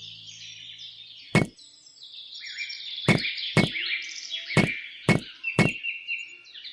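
Six sharp knocks at uneven intervals, hard and short like small solid objects being struck or set down, over a steady background chatter of many small birds chirping.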